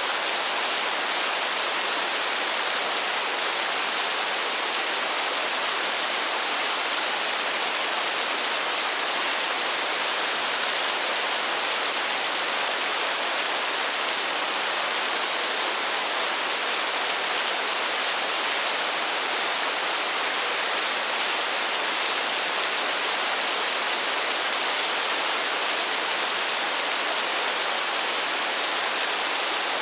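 Steady rain falling in a forest: an even, continuous hiss of drops with no single drops or gusts standing out.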